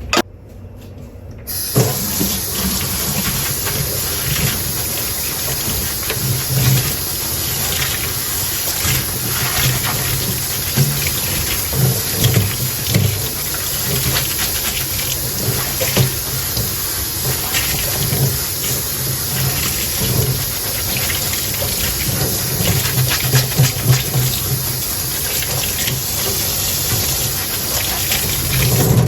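Kitchen tap turned on about a second and a half in, then running steadily into the sink while dishes are rinsed under it, with frequent small knocks and clinks of dishware in the stream.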